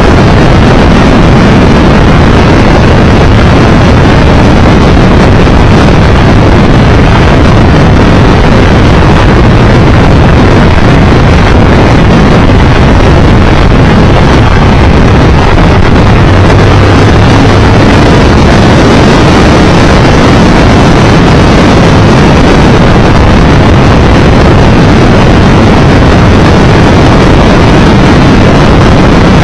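Loud, steady wind roar on the microphone of a Triumph Tiger Explorer 1200 riding at speed, with the bike's inline-triple engine and road noise underneath.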